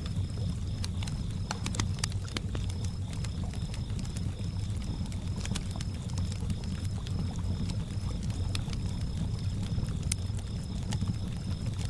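Campfire crackling, with frequent sharp pops over a low steady rumble. Crickets chirp in an even, rapid rhythm over a steady high insect trill.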